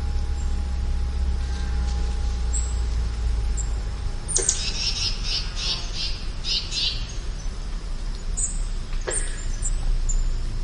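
Wild songbird singing: a phrase of about eight quick repeated high notes starting about four seconds in, with thin high whistled calls scattered around it, over a steady low outdoor rumble.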